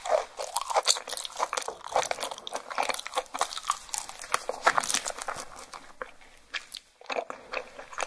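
Close-miked chewing of raw crab leg meat: a dense run of sharp, clicking mouth sounds. They thin out about six seconds in and stop briefly near the end before starting again.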